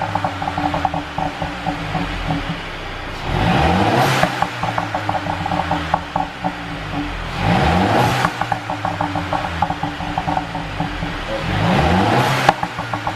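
Mercedes-Benz W207 E200's turbocharged four-cylinder engine blipped three times from idle, each rev rising and falling. Every blip is followed by a couple of seconds of rapid crackling and popping from the exhaust on the overrun, produced by a pop-and-bang engine tune.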